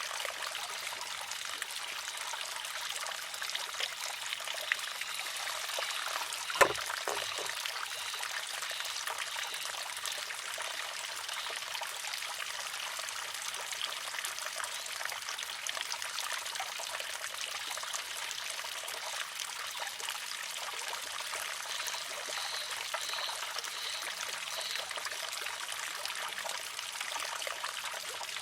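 Water trickling steadily into a wooden shishi-odoshi. About a quarter of the way in, the arm tips and strikes its rock with one sharp clack, followed at once by two lighter knocks.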